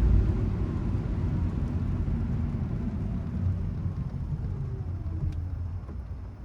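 Car driving, with a low rumble of engine and road noise. A tone slides down in pitch as the car slows, and the sound grows quieter near the end.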